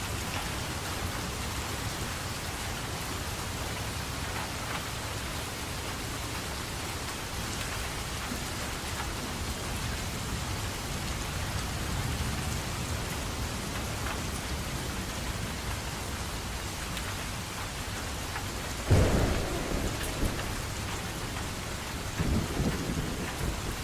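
Steady rainfall with a sudden crack of thunder about three-quarters of the way through, followed by more rumbling of thunder near the end.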